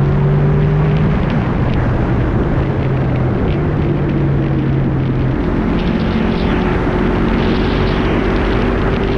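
Honda VFR800 VTEC's V4 engine pulling the bike along at road speed, its note stepping to a new pitch a few times. Heavy wind rush over the front-mounted GoPro's microphone lies under it.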